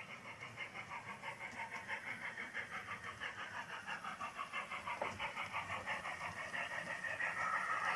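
Model train running on the layout track: a rapid, even pulsing of about six beats a second that grows steadily louder as it comes closer.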